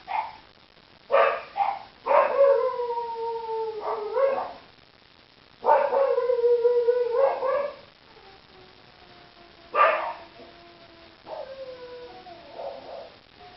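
Dogs barking and howling: two short barks, then two long howls of about two seconds each, a single bark near the ten-second mark, and fainter howls overlapping toward the end.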